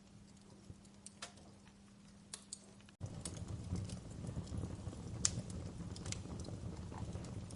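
Wood fire crackling, with scattered sharp pops. About three seconds in it abruptly gets louder: a low rumble of the flames sets in under denser crackling.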